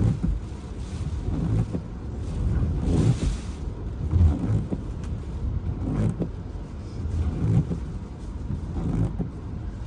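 Hurricane eyewall winds buffeting a parked car, heard from inside the cabin: a deep rumble that surges and eases in gusts, with a few sharp knocks.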